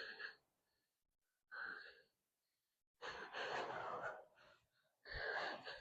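A man breathing hard in four short, heavy breaths, with dead silence between them, as from physical exertion.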